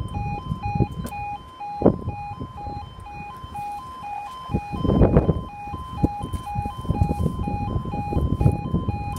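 Level crossing audible warning alarm (an E2S sounder) sounding its two-tone warble, several alternations a second: the crossing sequence is running for an approaching train. A low buffeting rumble swells under it, loudest about five seconds in.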